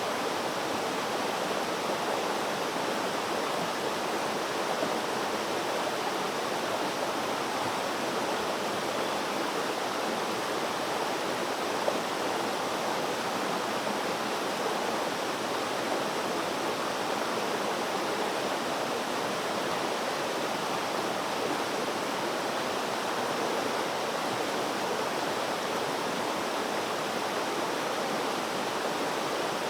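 Flowing water rushing steadily, an even, unbroken hiss-like wash with no change in level.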